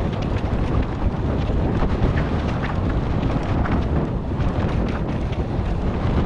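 Heavy wind buffeting the microphone of a GoPro on a mountain-bike rider moving at speed, with scattered small clicks and rattles from the bike running over rough trail.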